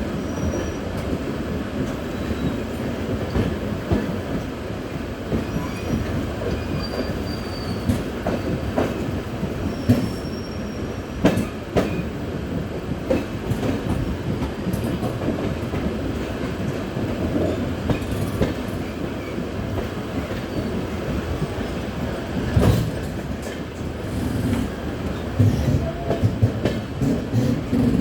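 Train running at speed on the rails: a steady rumble with irregular sharp clacks of the wheels over rail joints, the loudest about 10, 11 and 23 seconds in, and a few faint brief squeals of the wheels in the first ten seconds.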